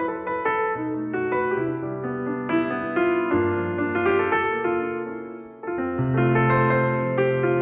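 Background piano music: a gentle run of notes, with a brief lull about five and a half seconds in before deeper bass notes come in.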